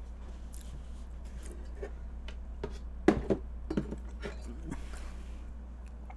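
Soft chewing and mouth noises with scattered small clicks of utensils on the cutting board, over a steady low hum. A brief low 'mm'-like mouth sound comes about three seconds in.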